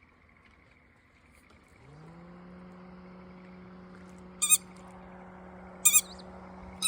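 A bird calling in short, loud, strongly pitched calls: a quick double call about halfway through, then single calls near the end. Under it a low steady motor hum starts about two seconds in, rising briefly in pitch before holding level.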